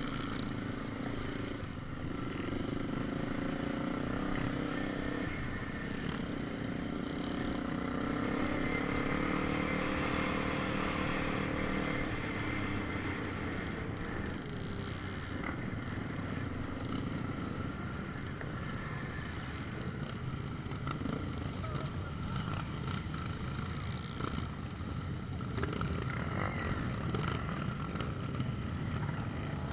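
An engine running steadily, its drone growing a little louder partway through.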